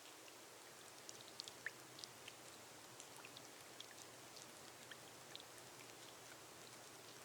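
Faint rain on a glass roof: a soft steady hiss with scattered drops ticking on the glass.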